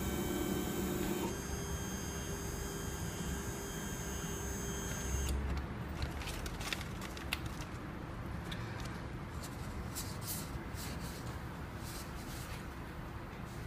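Wanhao Duplicator 5 3D printer's stepper motors whining steadily during auto-homing. The tone changes about a second in and stops about five seconds in with a low thump as homing ends, followed by scattered light clicks and taps.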